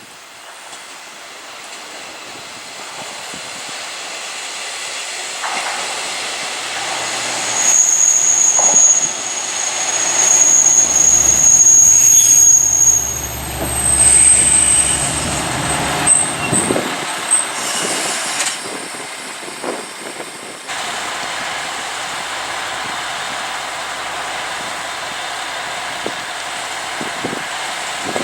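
A diesel railcar running through the station. Its engine rumble builds up, then comes high-pitched metallic squealing from the wheels and brakes, held in long steady tones for several seconds. About two-thirds of the way through, the sound drops abruptly to a steady even rumble.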